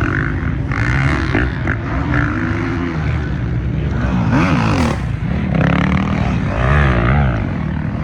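Off-road racing engines running loudly, with the pitch rising and falling as they rev, most clearly about four seconds in and again near seven seconds.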